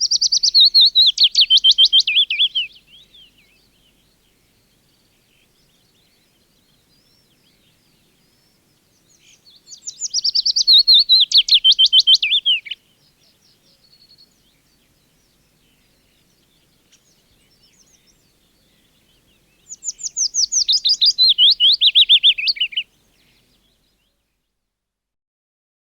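Willow warbler singing three song phrases about ten seconds apart. Each phrase is a quick run of high notes lasting about three seconds and falling steadily in pitch.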